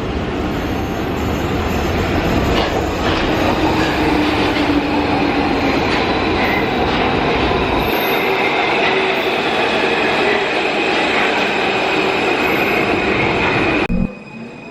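Santiago Metro Line 4 Alstom AS2002 train running on the elevated track: steady rumble and rail noise with high squeal and whine tones over it. The sound drops abruptly near the end.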